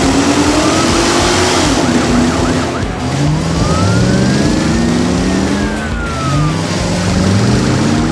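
Cartoon sound effects of vehicle engines revving, rising in pitch again and again as if shifting up through gears, with a police siren wailing over them.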